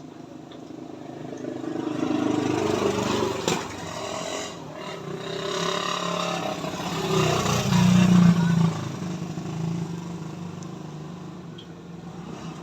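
A motor vehicle engine passing close by. It grows louder over several seconds, is loudest about eight seconds in, then fades away.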